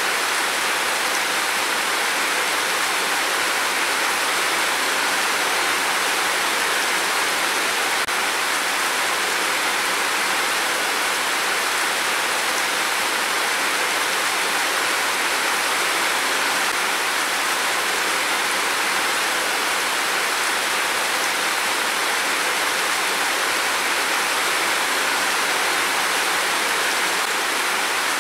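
Heavy rain pouring down in a steady, even rush with no change over time; no thunder sounds here.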